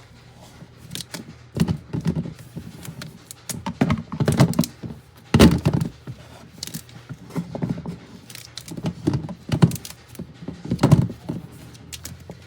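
Portable mini washing machine running, a steady low hum with irregular heavy thunks and knocks every second or two.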